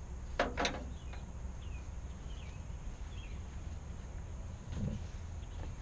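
A small bird chirps repeatedly, short falling notes, over a steady low outdoor rumble. A pair of sharp clatters comes about half a second in, and a dull knock near the end.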